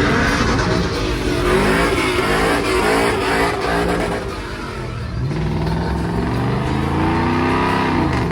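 Truck engine revving unevenly, then pulling up steadily in pitch for a few seconds before dropping sharply near the end.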